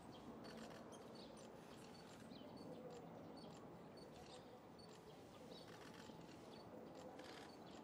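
Near silence: faint outdoor ambience with scattered light taps and brief, high chirps.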